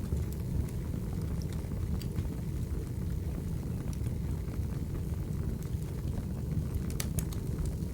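Wood fire crackling: a steady low rumble of flames with scattered sharp pops, a small cluster of them about seven seconds in.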